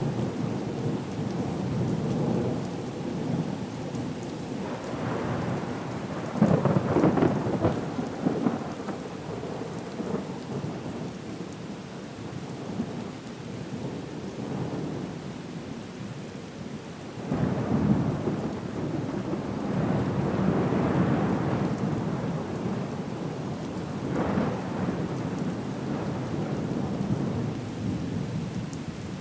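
Thunderstorm ambience: steady rain with rolling thunder, swelling loudest about six seconds in and again about seventeen seconds in.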